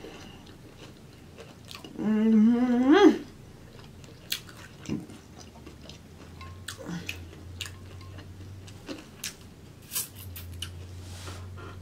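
Close-miked mouth sounds of eating: chewing, lip smacks and wet clicks. About two seconds in, a loud hummed "mmm" of enjoyment with a wavering pitch that rises at its end; later, soft smacks as fingers are licked.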